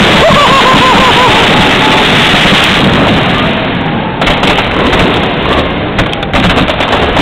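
Fireworks show: dense overlapping bangs and crackling loud enough to overload the microphone, with a wavering whistle in the first second. From about four seconds in it breaks into separate sharp cracks.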